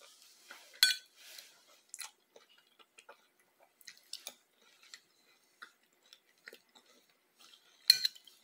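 Close-up chewing with scattered small mouth clicks. About 8 seconds in, a metal spoon scrapes and clinks on the plate.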